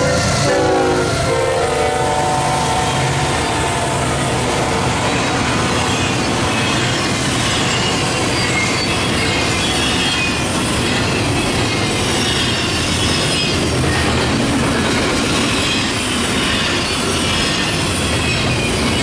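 Air horn of a Union Pacific GE ES44AC diesel locomotive dropping in pitch as it passes and ending within the first two seconds. Then the locomotive consist and double-stack intermodal cars rolling by at speed: a steady heavy rumble with high wavering wheel squeal.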